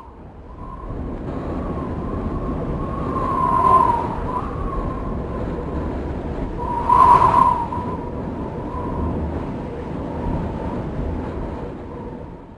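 Strong wind rumbling as a tornado effect, with a steady high-pitched tone running through it that swells twice, about four and seven seconds in. It fades in at the start and fades out near the end.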